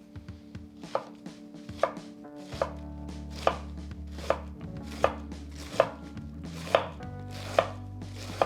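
Knife slicing through a cabbage and striking the cutting board in a steady rhythm, about ten cuts, a little over one a second.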